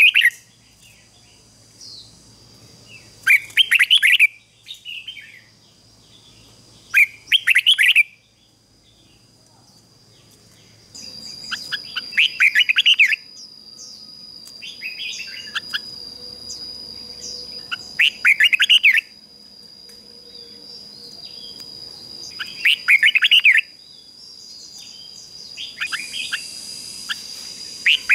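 Red-whiskered bulbul, a decoy bird, singing short bright phrases every three to four seconds. A thin steady high whine joins about a third of the way in.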